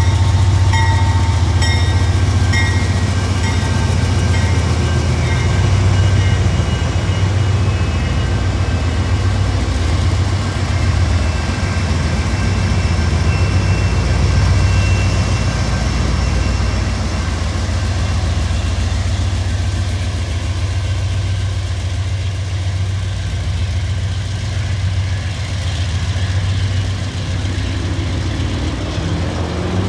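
Diesel freight locomotive running with a steady, heavy low drone, a few regular ticks in the first seconds. Near the end a rising tone sets in.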